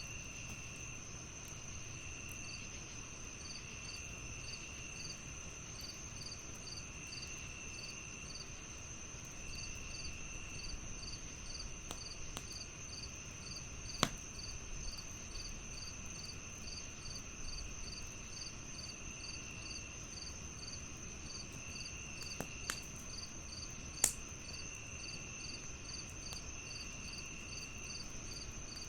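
Crickets chirping: a steady high trill, a regular chirp repeating under it, and a lower trill that comes and goes. A few sharp pops of a crackling wood fire stand out, the loudest about halfway through and again near the end.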